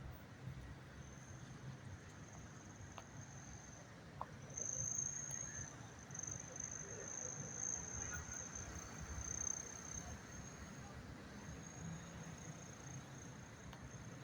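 Low rumble of street traffic with a thin, steady high-pitched trill running over it, which gets louder around the middle and breaks off briefly near the end.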